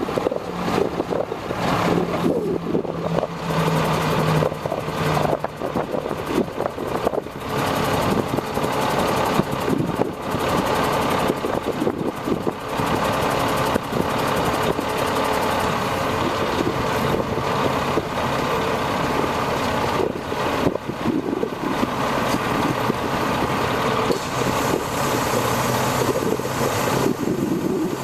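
Diesel engine of a 1997 International 2674 crane truck running steadily, its pitch shifting slightly in the first few seconds.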